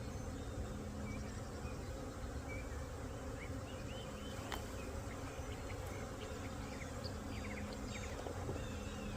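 Honey bee swarm buzzing: many bees in flight making a steady, even hum, with one sharp click about four and a half seconds in.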